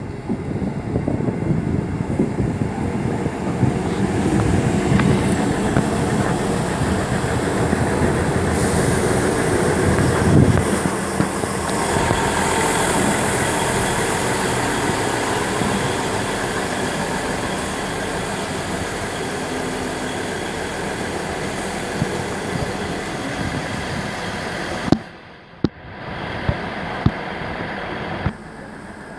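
East Midlands Trains diesel multiple unit passing close along the platform, its underfloor engines running and its wheels rolling on the rails. The noise builds to its loudest about ten seconds in and then holds steady, with a brief sudden dip near the end.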